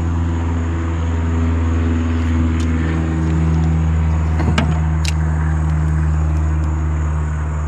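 Steady drone of an engine running at a constant speed, like a vehicle idling, with a few short clicks about halfway through.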